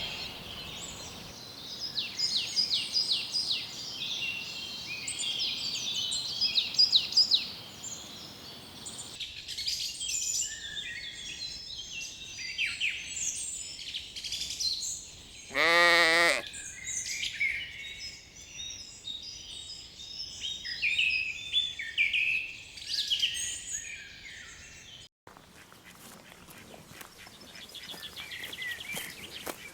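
Small birds singing and chirping throughout, with one quavering sheep bleat lasting about a second about halfway through.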